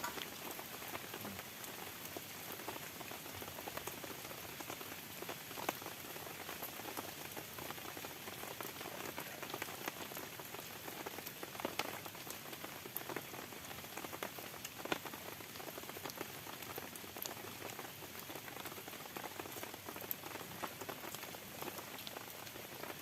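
Heavy rain falling steadily, with scattered louder drops striking close by.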